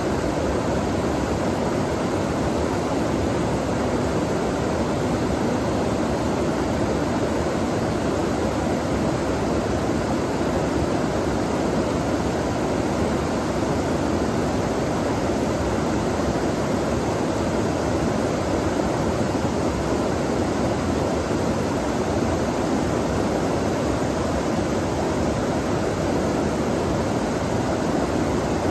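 Stream water flowing steadily, an even rushing sound that does not change, with nothing else standing out.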